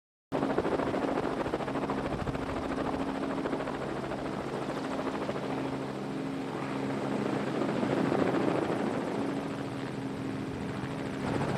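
Steady engine drone with a rushing noise, holding a few constant low tones; it starts abruptly a moment in and swells slightly about two thirds of the way through.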